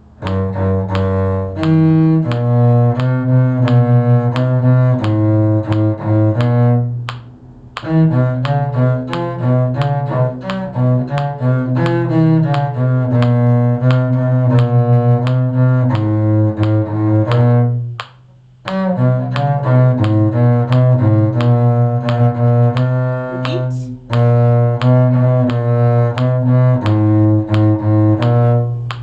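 Bowed string instruments playing a simple beginner's tune in steady, even notes, broken into phrases by short pauses about 7, 18 and 24 seconds in.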